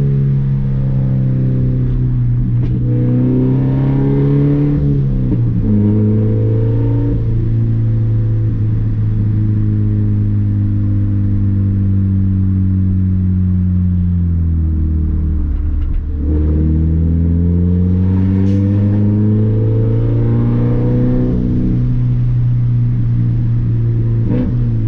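Scion FR-S flat-four engine with its muffler and resonator deleted, loud under way: its pitch drops at a gear change about five seconds in, sinks slowly as the car coasts, climbs again under acceleration, then eases off near the end.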